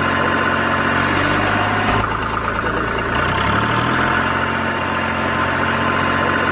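Tractor engine idling steadily, its pitch shifting a couple of times along the way.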